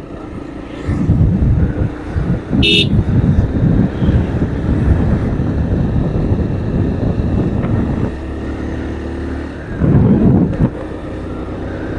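Motorcycle engine running while riding in traffic, louder and rougher from about a second in until about eight seconds in, with a brief high-pitched beep about three seconds in and another surge near ten seconds.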